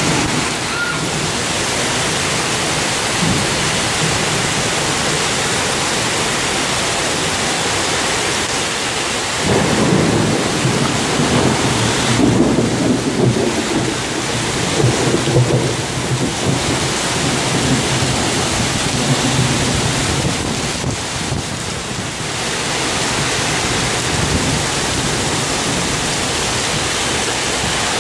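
Torrential rain pouring down steadily in a thunderstorm, a dense even hiss. From about a third of the way in until past the middle, a low, uneven rumbling rises and falls beneath the rain.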